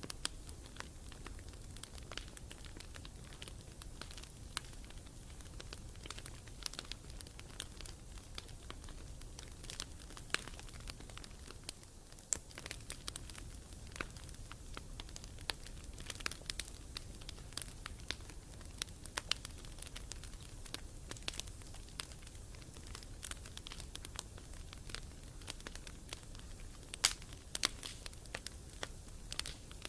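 Wood campfire burning, crackling with frequent sharp pops over a low steady rumble, with a few louder pops near the end.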